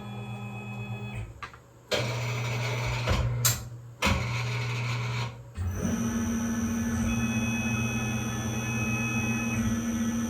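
Tormach Slant Pro CNC lathe running a drilling and tapping cycle on a small cleaning jag: a steady spindle whine that breaks off and changes several times, with a stretch of cutting noise in the middle and a new, higher steady whine from about six seconds in.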